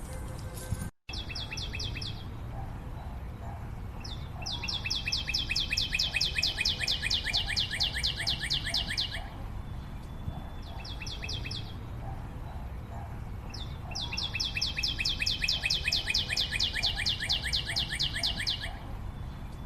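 High, rapid chirping trills in bouts of about five seconds, each a fast, even run of about ten chirps a second, over a low steady background hum.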